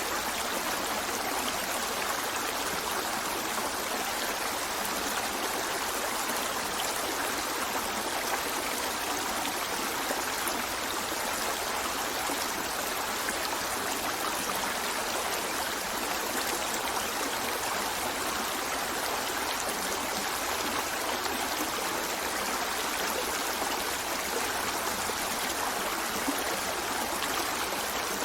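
River water running steadily over rocks, a continuous even rush with small trickling and gurgling detail.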